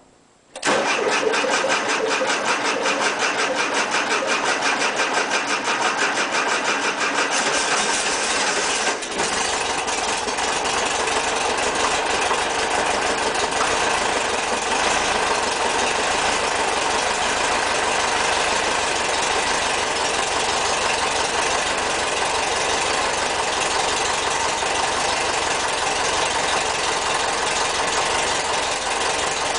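Air-cooled flat-four engine starting about half a second in. It runs with a fast, even beat for several seconds, then settles into a steady idle.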